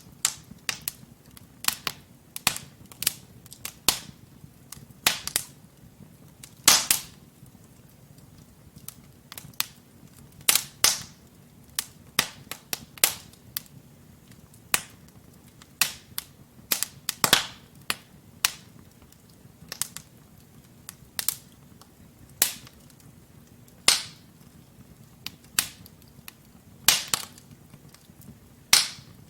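Wood logs burning in a fireplace, crackling with irregular sharp pops and snaps, a few louder than the rest, over a faint steady low rumble of the flames.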